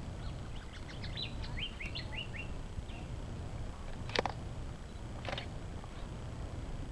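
Small bird calling: a quick run of short chirps in the first two and a half seconds, over a steady low outdoor rumble. A sharp short sound about four seconds in, and a fainter one a second later.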